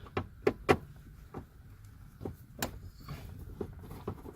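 Irregular light clicks and knocks from a Phillips screwdriver and hands working at the screws under a car's glove box.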